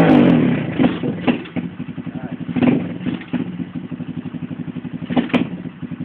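Motorbike engine revved and then dropping back to a steady idle, with several short throttle blips in between while the bike stands still.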